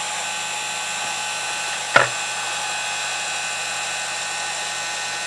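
Electric heat gun running steadily, blowing hot air to soften the adhesive under a GPS touchscreen digitizer. A brief tap about two seconds in.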